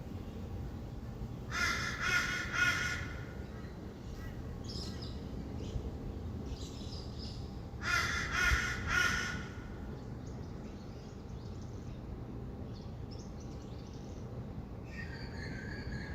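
Harsh bird squawks in two bursts of about three calls each, with softer chirps between them and a longer call near the end, over a steady low hum of distant traffic.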